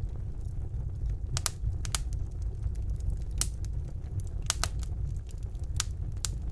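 Wood fire burning in a fireplace: a steady low rumble of the flames with sharp crackles and pops every second or so, several coming in quick pairs.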